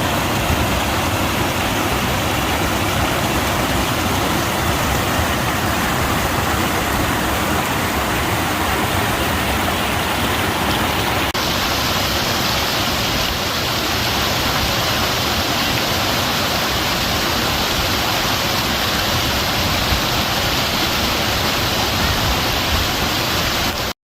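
Waterfall on a small moorland stream, rushing water at a steady level. About eleven seconds in the sound shifts abruptly to a brighter hiss, and it cuts off suddenly at the end.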